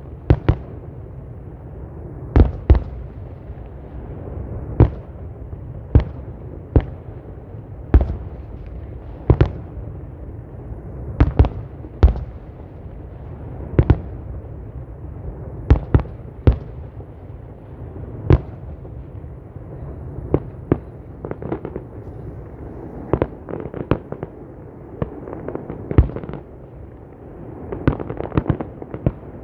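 Aerial fireworks exploding: a run of sharp bangs about one to two a second, several of them in quick pairs, over a continuous rumble of distant booms. Near the end a denser patter of crackling bursts sets in.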